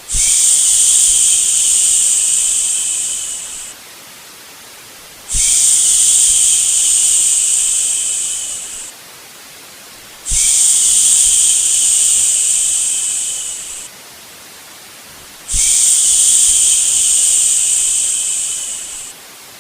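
A person shushing ("shhh") in long, even strokes, four times, each lasting almost four seconds and tailing off, over a quieter steady white-noise hiss between the shushes.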